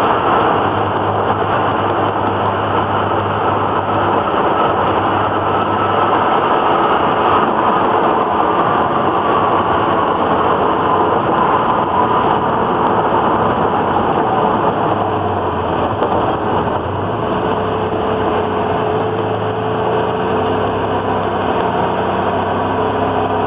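Twin-turbo Datsun Z car's engine and road noise heard from inside the cabin while driving, a steady drone with no change in level.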